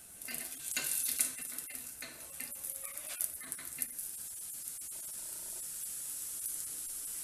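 Batter-coated bread roll sizzling in a little oil in a non-stick frying pan. There are a few light knocks in the first few seconds as the roll is stood on its end, then a steady sizzle.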